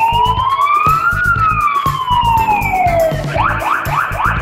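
Electronic police-siren sound, as from a toy ride-on police car: one slow wail that rises for about a second and falls for two, then switches to a fast yelp about three seconds in. A steady low beat of background music runs under it.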